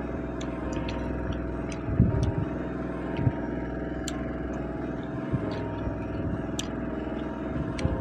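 Eating by hand at a meal: scattered small clicks and a few soft low knocks, over a steady mechanical hum.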